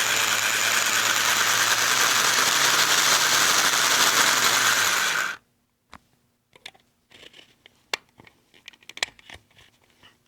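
HO scale model locomotive's motor and gears whirring steadily under the load of a long, heavy train, then cutting off abruptly about five seconds in, followed by a few light clicks. The sudden stop is what the owner fears means he has just killed the engine.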